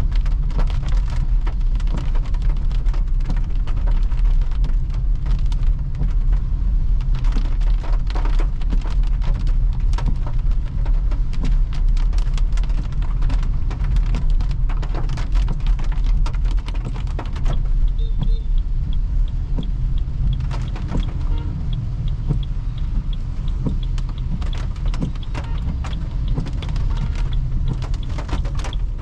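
A car driving on a wet road in rain: a steady low road and tyre rumble with many sharp patters of rain on the body. About eighteen seconds in, a faint, evenly spaced light ticking joins.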